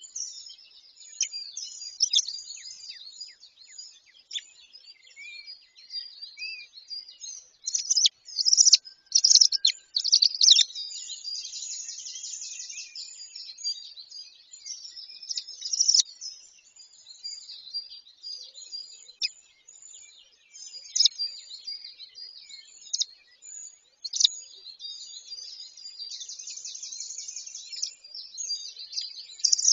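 Birds chirping and calling almost without a break: quick high notes and short trills, with a burst of louder calls about a third of the way through.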